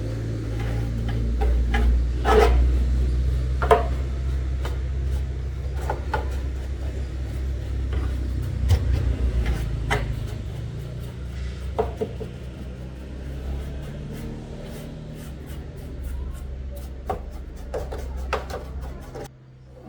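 Steady low hum with scraping, rubbing and scattered clicks of close handwork over it; the hum cuts off suddenly near the end.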